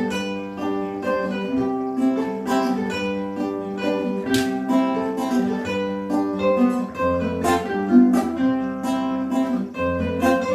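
Instrumental break of a folk song played on strummed and plucked string instruments, guitar-led, with a steady rhythm and no singing.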